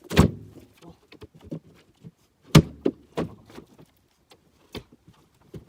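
Heavy jarrah firewood being thrown down, wood on wood: two loud thuds about two and a half seconds apart, among lighter knocks and clunks.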